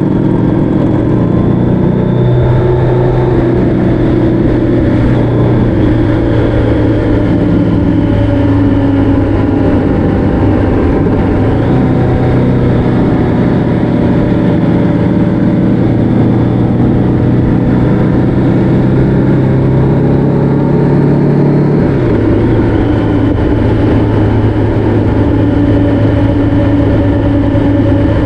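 Motorcycle engine running at cruising speed, its pitch shifting a little now and then as the throttle changes, over rumbling wind noise.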